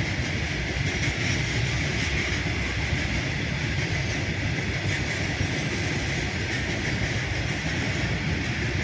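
Freight train of hopper wagons rolling steadily past on the rails: a continuous rumble with a steady high whine above it.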